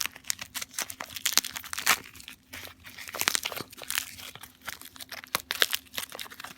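Packing material being handled and pulled off a pair of drone batteries: irregular crinkling and crackling.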